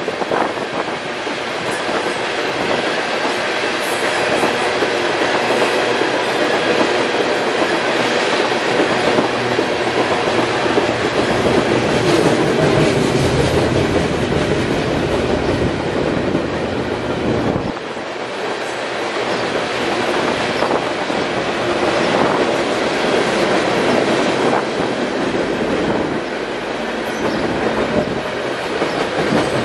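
Freight train cars (tank cars, covered hoppers, autoracks and boxcars) rolling past at speed: a steady rumble and rattle of steel wheels on rail, with wheels clicking over the rail joints.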